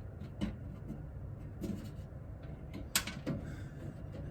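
A few light clicks and knocks from small parts being handled, the sharpest about three seconds in with another just after it.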